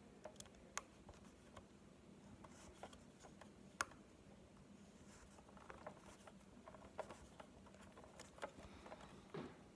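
Near silence with faint, scattered clicks and taps of small plastic parts being handled, and one sharper click about four seconds in.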